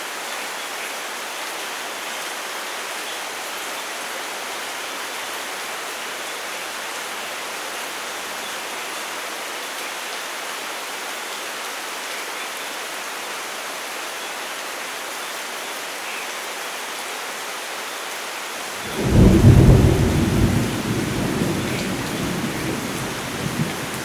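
Steady heavy rain falling, then about 19 seconds in a sudden loud clap of thunder that rumbles low and slowly fades under the rain.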